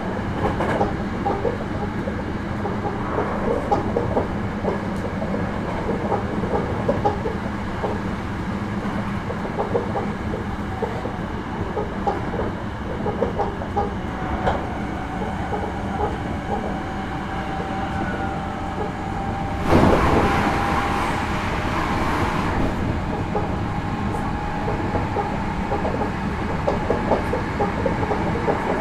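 Hankyu 9300 series electric train running at speed, heard from inside the car: a steady rumble with the wheels clicking over rail joints and a thin steady whine in the middle. About twenty seconds in, a sudden louder rush of noise lasts about three seconds.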